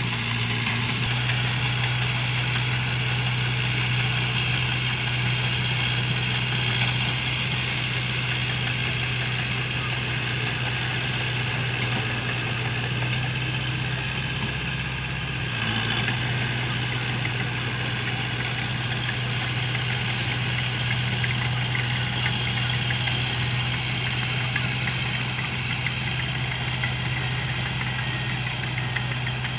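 Heavy earthmoving machine's diesel engine running steadily at a low, even speed, with a brief dip about halfway through.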